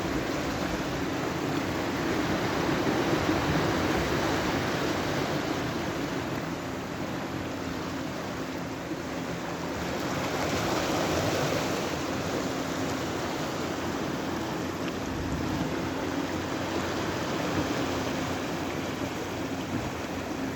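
Sea waves breaking and washing on the shore in a continuous rush that swells about two seconds in and again about halfway through. A faint steady low hum runs underneath, clearest in the second half.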